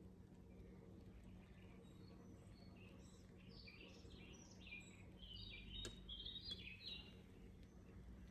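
A small bird chirping faintly in a quick run of short notes that starts about two seconds in and stops near the end, over a steady low hum.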